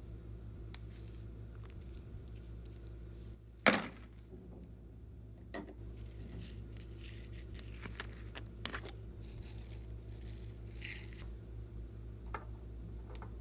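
Small objects being handled up close: soft crinkling and scraping, with one sharp snap about four seconds in and a few fainter clicks later, over a steady low hum.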